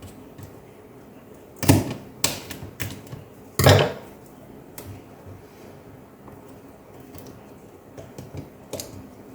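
Sharp clicks and short rattling scrapes from a laptop's plastic parts being handled, loudest in a cluster about two to four seconds in, with a few lighter clicks near the end.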